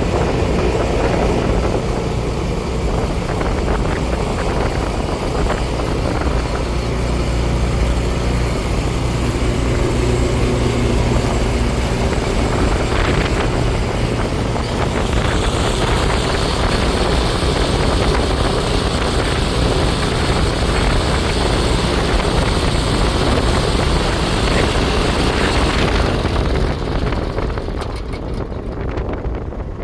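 Iseki TJ75C semi-crawler tractor's diesel engine running steadily, with a constant low drone and broad mechanical noise. The higher hiss shifts about halfway through and fades near the end.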